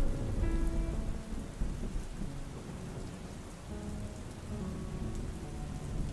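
A deep rumble of thunder right at the start, loudest for the first second or so and then rolling on more softly, over steady rain. Soft sustained notes of an ambient score sound along with it.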